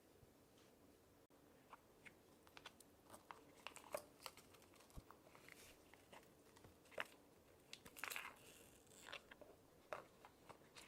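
Jewellery packaging being handled up close: scattered small clicks and crinkles, with a longer crinkling rustle about eight seconds in.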